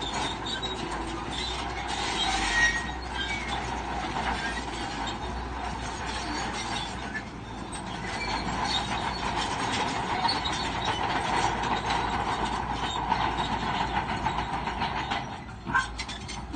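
Crawler bulldozer running under load, its steel tracks clanking and squealing over the engine noise.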